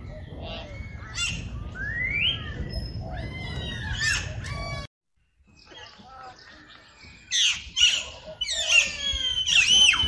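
Birds chirping and squawking, a run of quick high calls that sweep up and down in pitch. The sound cuts out suddenly for about half a second near the middle, and the calls come back louder and more crowded in the last few seconds.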